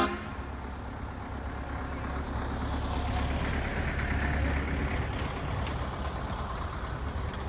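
Heavy truck engine rumbling as it pulls away, growing louder to a peak about halfway through and then easing off.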